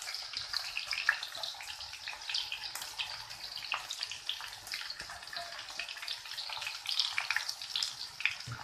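Chopped onions frying in hot oil in a kadai: a steady sizzle with many small crackles and pops.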